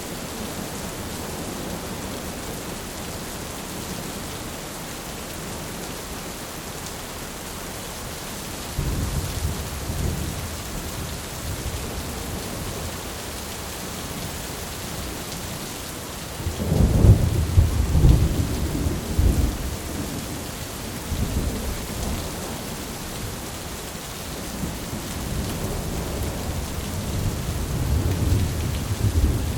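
Thunderstorm ambience: steady rain hiss with rolls of thunder rumbling, one about a third of the way in, the loudest a little past halfway, and another building near the end.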